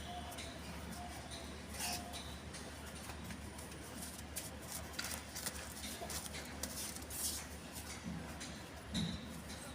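Pet parrot making faint clicks and scratching sounds, with a few brief high chirps, over a low steady hum.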